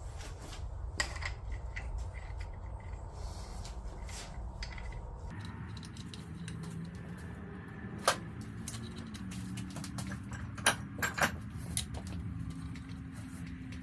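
Sharp metallic clinks of parts or tools being handled, a single one about eight seconds in and a quick cluster near the end, over a low hum that sets in about five seconds in.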